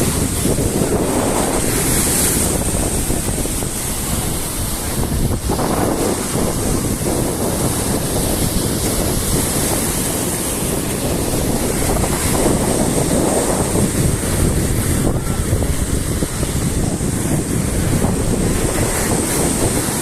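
Black Sea surf breaking and washing up the shore, the sound swelling and easing with each wave, with wind buffeting the microphone.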